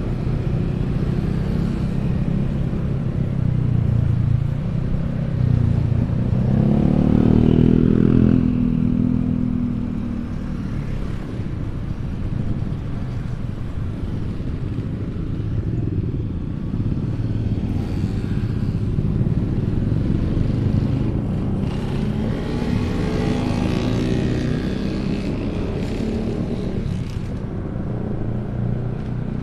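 Motorcycle engines running in road traffic, a steady low rumble. One bike passes close and loud about seven seconds in, and another about twenty-three seconds in.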